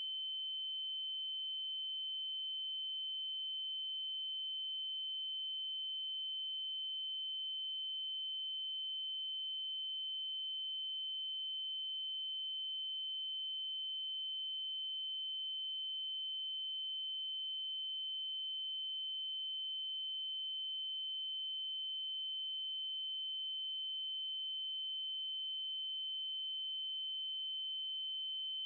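Steady electronic 3072 Hz triangle-wave tone, one unchanging high pitch, with faint overtones above it.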